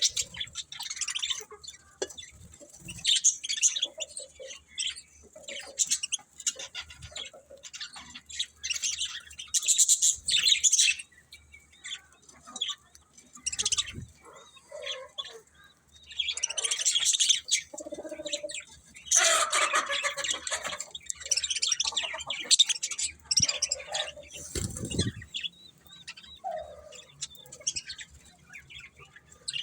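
Budgerigars chirping and warbling in irregular bursts of quick, high twittering with short pauses between them.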